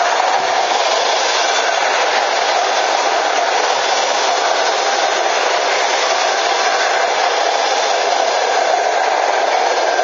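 Passenger coaches of a locomotive-hauled train rolling past close by: a loud, steady rush of wheels on the rails that does not let up.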